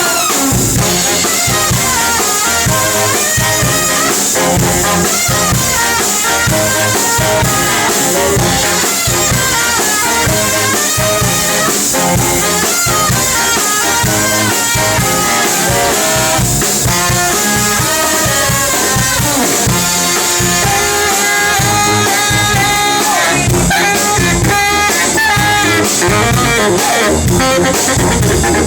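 Live brass band playing an upbeat jazzy tune: trumpet, trombone and saxophone over a drum kit keeping a steady beat.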